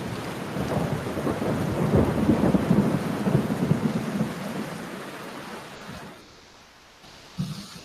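A roll of thunder with rain: the rumble builds over the first couple of seconds, crackles at its loudest, then slowly fades away.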